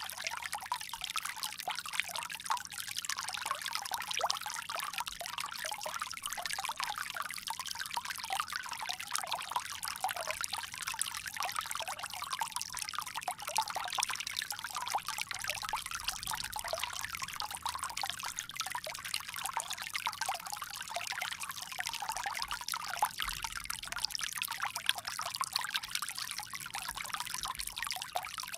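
Water flowing steadily from a bamboo spout and splashing down, a continuous bright trickle with no pauses.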